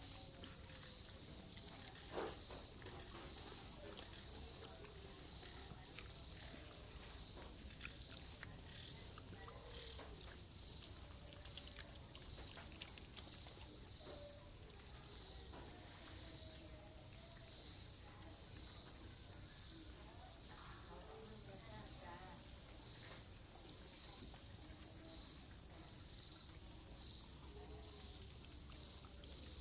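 A steady chorus of insects, crickets or similar, trilling at several high pitches without pause, with a few faint clicks now and then.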